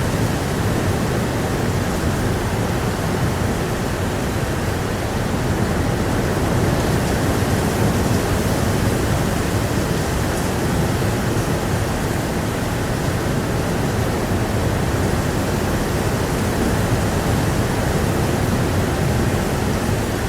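Heavy rain falling steadily with blustery wind, a dense, even rushing noise without a break.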